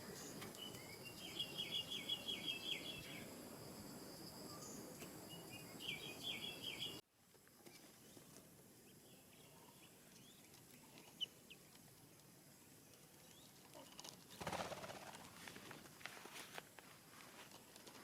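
A bird calling in two quick runs of rapidly repeated high chirps over a faint background hiss, then an abrupt cut to a quieter background. A brief rustle follows later.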